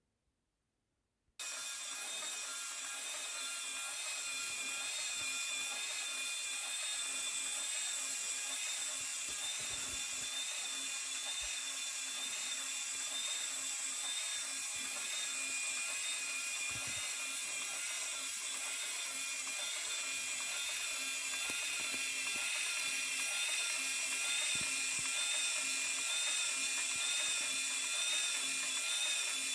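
Small electric motor driving the moving engines of a Hachette Titanic model kit. It starts suddenly about a second in, then runs steadily with a high-pitched gear whine.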